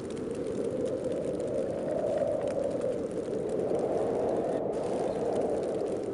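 Snowstorm wind blowing in gusts, swelling about two seconds in and again around four to five seconds.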